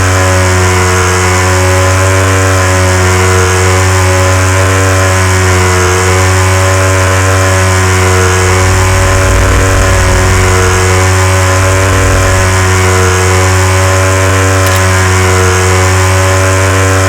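KTM Duke 390's single-cylinder engine running loud and steady at constant revs, with an even swell a little more than once a second.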